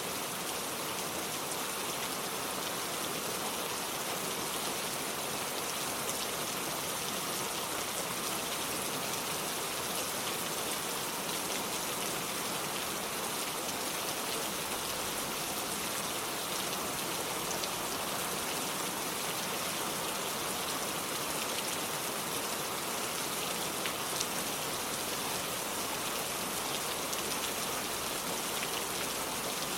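Steady rain falling, an even hiss of many drops with an occasional sharper drop tick standing out.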